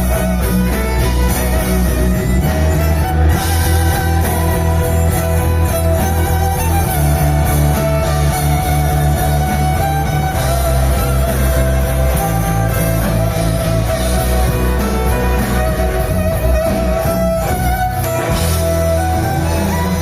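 A rock band playing live, an instrumental passage with no singing: guitar over held bass notes that change every second or two.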